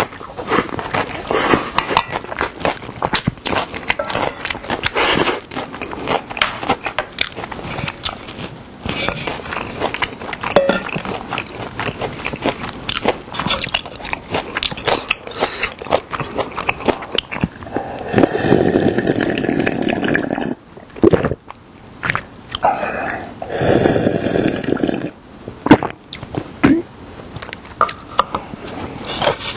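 Close-miked eating sounds from a meal of young radish green (yeolmu) bibimbap and seafood doenjang soup: steady chewing with many small, wet, crunchy mouth clicks. Twice in the later half a longer, louder noisy stretch of about two seconds stands out.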